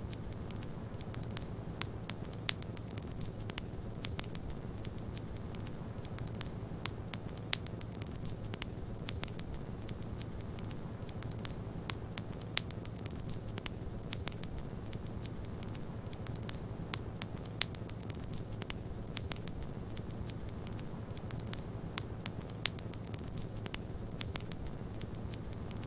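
Wood fire in a fireplace crackling steadily, with many small snaps and a few louder pops about every ten seconds, over a constant low rumble.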